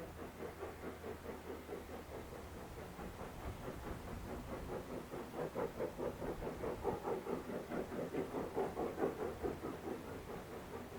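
Steam locomotive working, its exhaust beats coming in an even rhythm of a few a second and growing louder past the middle before easing off near the end.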